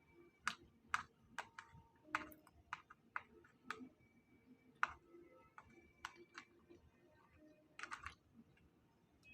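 Utensils and food containers clicking and tapping while someone eats: irregular sharp clicks about one or two a second, with a quick flurry of clicks near the end.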